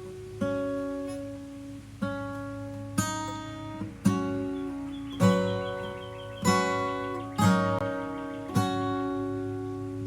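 Acoustic guitar playing chords, each struck and left to ring, about one every second or so.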